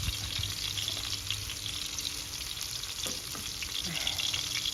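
Fish frying in hot oil over a wood fire: a steady sizzle with small pops and crackles scattered through it.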